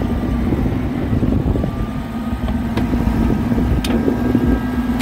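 Oliver 770 tractor's six-cylinder engine running steadily at a constant speed, with a few light clicks about halfway through.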